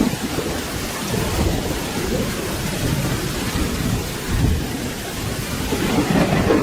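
Steady heavy rain with a low rolling rumble of thunder underneath, swelling about two thirds of the way in and again near the end.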